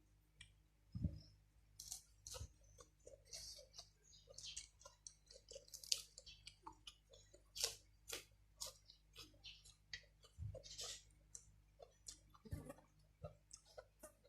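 Someone eating boiled instant noodles close to the microphone: soft, irregular chewing and wet mouth smacks, with a few low thuds.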